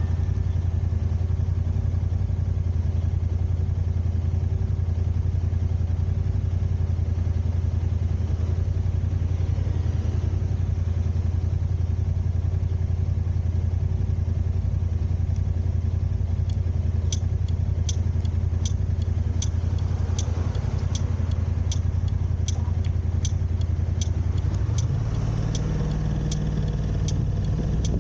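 A car's steady low engine and road drone heard from inside the cabin, which shifts a few seconds before the end. About two-thirds of the way in, the turn signal starts ticking at an even pace of roughly three clicks every two seconds.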